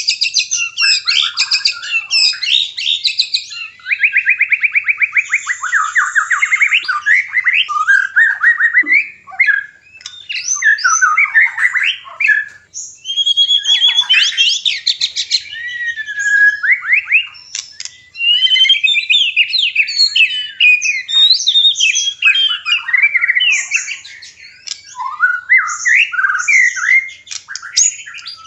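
White-rumped shama (murai batu) courtship song: a long, nearly unbroken run of varied whistled phrases, fast trills and chattering notes.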